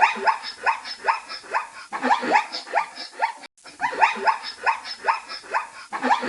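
Zebra calling: a rapid run of short, barking yelps, several a second, each dropping in pitch, broken once by a brief gap about three and a half seconds in.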